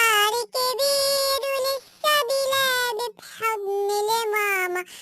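A high, child-like sung voice singing an Arabic children's song in long held notes, with short breaks between the phrases.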